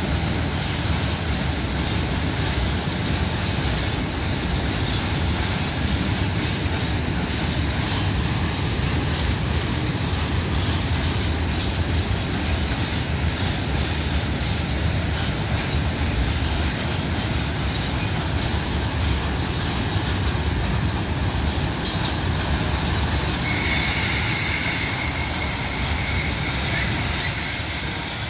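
Freight train of tank wagons rolling past at low speed: a steady low rumble of steel wheels on rail. About 23 seconds in a high-pitched, several-toned squeal of the wheels sets in and comes and goes, typical of a freight train braking on arrival.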